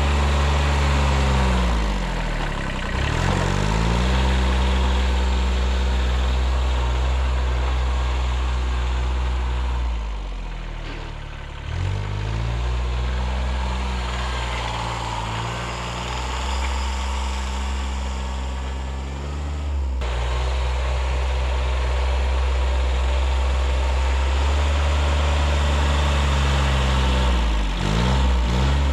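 1978 Kubota B6100 14 hp diesel tractor engine running steadily under work, its note dipping and recovering about four times.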